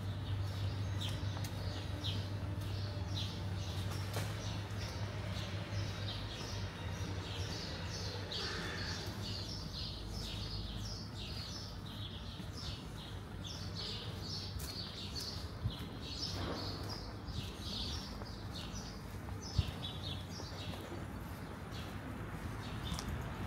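Small birds chirping over and over, many short high calls, over a steady low hum of city background.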